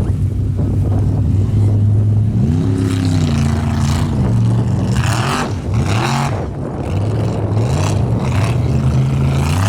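A Formula Offroad buggy's engine revving, its pitch rising and falling several times. Short bursts of hiss come in the middle.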